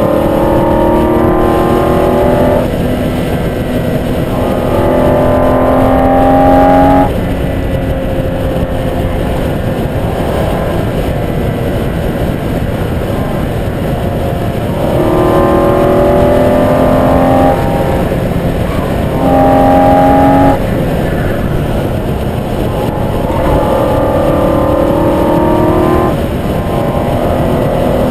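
Track car's engine heard onboard at speed, pulling hard with its pitch climbing several times, each pull ending abruptly, with a quieter stretch off the power in the middle; steady wind and road noise throughout.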